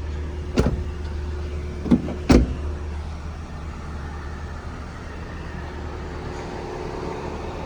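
Doors of a Fiat Strada double-cab pickup being handled: a sharp knock about half a second in, then two more close together about two seconds in, the last the loudest, like a door shutting, over a steady low hum.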